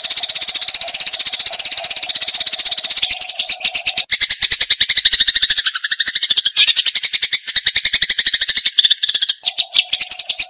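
Eurasian tree sparrow in aggressive 'fighting' mode, giving a rapid, unbroken chatter of sharp chirps. Midway the chatter dips lower in pitch for a few seconds before climbing back.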